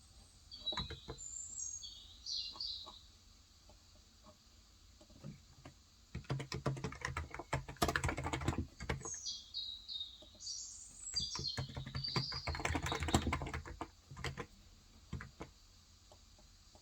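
Typing on a Cox Endeavor electro-capacitive (contactless) tenkeyless keyboard with 35 g switches: runs of quick keystrokes with short pauses between them. A small bird chirps in quick high notes near the start and again in the middle.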